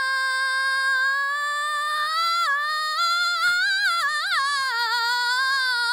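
A woman's singing voice holding one long high note, unaccompanied, with a few quick runs up and down in the middle before it settles back.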